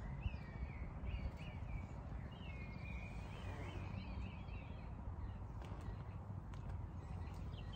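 A small bird singing: a run of short chirping notes, then a warbling phrase, over a steady low background rumble.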